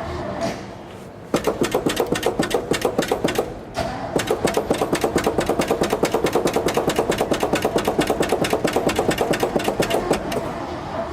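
Starter motor cranking the 1970 GMC truck's engine without it firing, with even compression beats at about six a second: a short burst of cranking, a brief pause, then a longer one. The engine won't catch, which the owner puts down to a carburetor in need of a rebuild.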